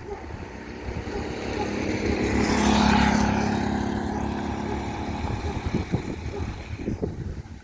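A motor vehicle drives past. Its engine and tyre noise grow louder to a peak about three seconds in, then fade away.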